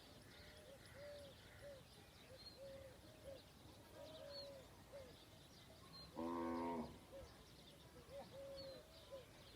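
Faint birds calling throughout, with many short repeated calls and thin high chirps. About six seconds in, a cow gives one short, loud moo.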